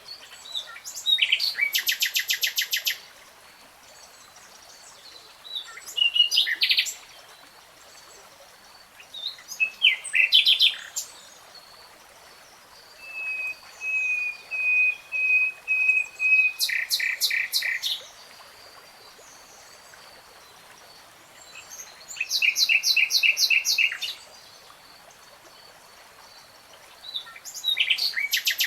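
Nightingale singing in separate phrases a few seconds apart, each a fast rattling trill of repeated notes. Midway, one phrase starts with a run of soft piping whistles on one pitch that breaks into a rapid trill.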